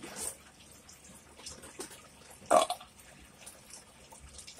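Close-miked wet mouth sounds of chewing, a run of small soft clicks, with one louder, sharp mouth sound about two and a half seconds in.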